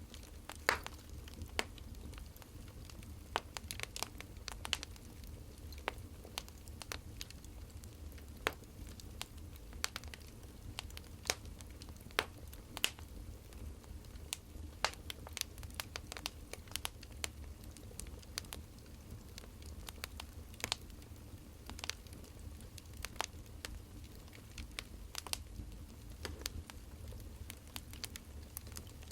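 Wood fire crackling: irregular sharp pops and snaps of burning logs, several a second, over a steady low rumble.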